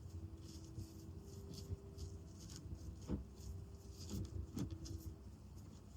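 Faint rustling and scratching of jute cord being handled and pulled on a walking stick's grip, with a few soft ticks.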